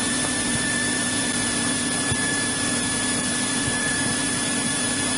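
Steady drone of a 1963 Cessna 172E's Continental O-300-D six-cylinder engine and propeller, heard inside the cabin, running at an even power setting.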